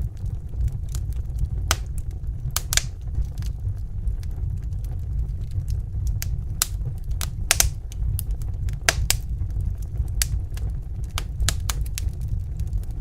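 Wood fire burning in a fireplace: irregular sharp crackles and pops over a steady low rumble of the flames, with a few louder snaps.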